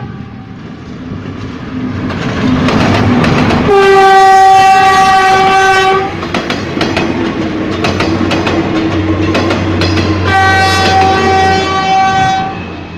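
Ex-JR 203 series electric multiple unit running on Philippine National Railways track, its horn sounding two long steady blasts, the first about four seconds in and the second near the end. Under the horn, a steady rushing running noise with the clicking of wheels over rail joints.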